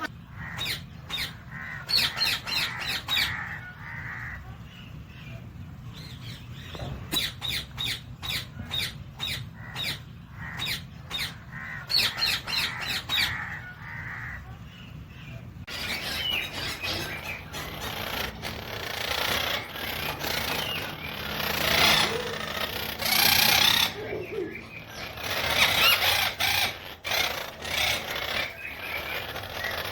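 Pet parrots calling in quick runs of short sharp chirps and squawks over a steady low hum. About sixteen seconds in the sound changes to louder, denser chattering.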